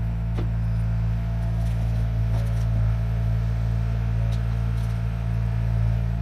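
1972 Chevrolet C50 dump truck's engine running at a steady speed, a deep even drone, with a few faint ticks.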